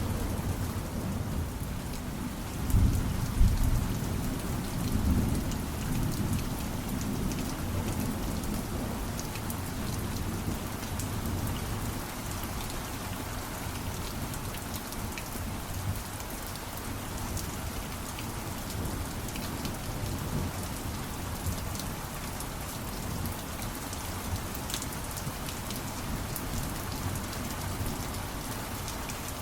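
Steady heavy rainfall with scattered drop ticks, and a rumble of thunder building about two seconds in and fading out over the next few seconds.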